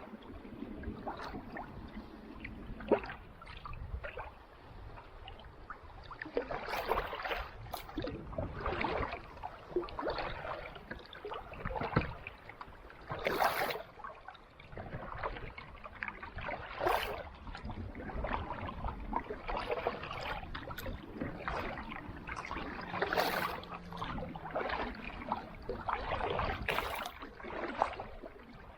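Kayak paddle strokes on calm sea water: a splash every few seconds as the blade dips in, with water dripping and lapping between strokes.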